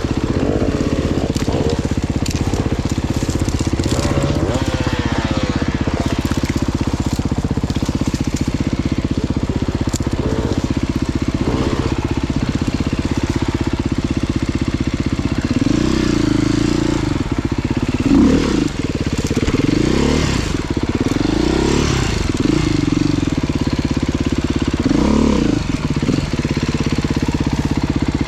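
Dirt bike engine running hard over rough ground, the revs rising and falling in quick swells several times, most of all in the second half.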